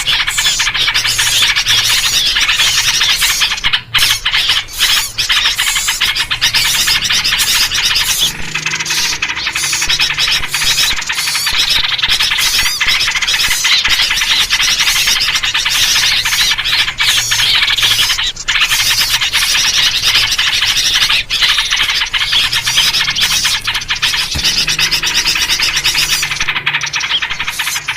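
Dense, unbroken chorus of many small songbirds chattering and calling over one another, with yellow-vented bulbul (trucuk) calls in the mix: a noisy-birds lure recording of the kind played to draw wild birds in.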